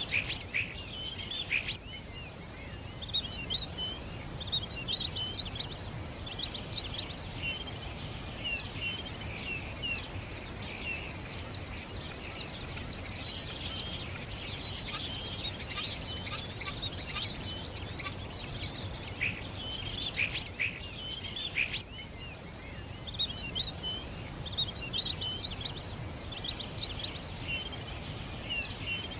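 Many small songbirds chirping and twittering at once, quick overlapping chirps and short trills that thicken in the middle and thin out briefly a little after that, over a steady low background rumble.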